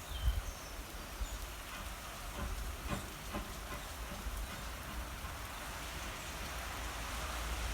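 Wind buffeting the microphone over a steady hiss of rain, with a few faint clicks a little before the middle.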